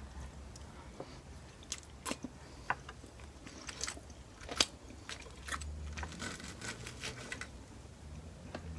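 Close-up eating sounds: chewing and biting with scattered sharp crunches and small clicks, the loudest crunch a little past halfway. A low steady hum lies underneath.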